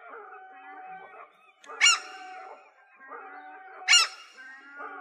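Gulls calling: two loud, short, sharp calls about two seconds apart, over a steady background of quieter calls from other gulls.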